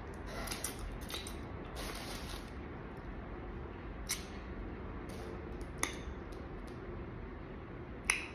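Crawfish being cracked, peeled and eaten close to the microphone: soft wet squishing and slurping, with three sharp shell snaps about four, six and eight seconds in.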